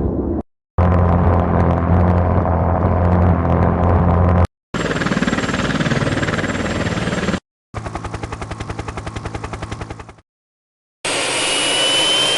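Military jet engine noise in a run of short clips that cut in and out abruptly: a steady low hum, then a steady rush, then a rapid even pulsing of about fifteen beats a second, and near the end a rising whine of an engine spooling up.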